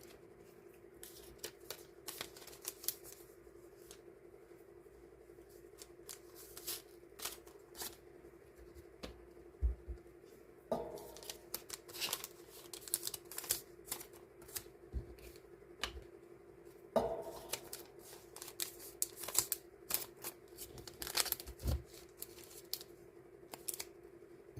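Die-cut paper stickers being handled and sorted by hand: irregular rustling, light taps and snips, with two sharper sounds about a third and two thirds of the way through. A steady low hum runs underneath.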